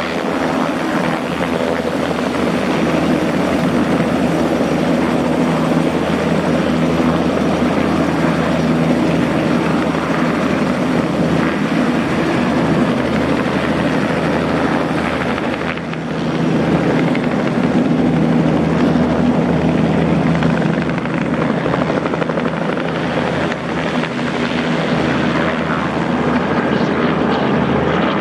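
Helicopter running close by with a steady rotor and engine sound, dipping briefly a little past halfway, after which the highest part of the sound is weaker.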